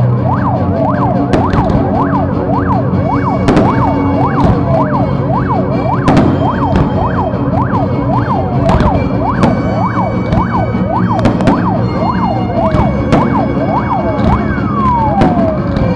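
Fireworks display: many whistling fireworks rising and falling in pitch in quick succession, with sharp bangs of bursting shells throughout. A long falling whistle comes near the end.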